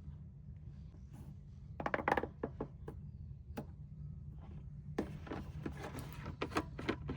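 Objects being handled: a quick clatter of light knocks about two seconds in, then a run of clicks and taps from about five seconds on, over a steady low rumble.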